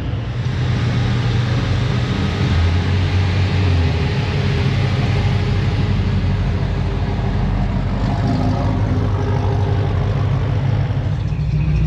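A truck engine running steadily, its low hum shifting pitch a few times.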